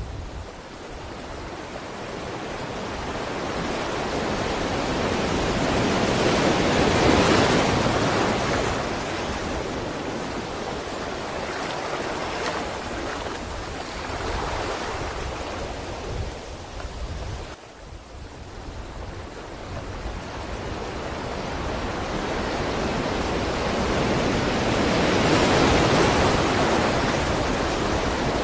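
Sea waves washing in and receding, a steady rush of surf that swells slowly to two peaks, about a quarter of the way in and again near the end.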